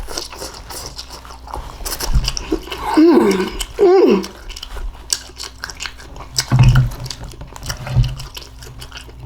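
Close-miked chewing and mouth sounds of someone eating seasoned green beans, with small clicks throughout. Two short falling hums come about three and four seconds in, and low thumps near the end.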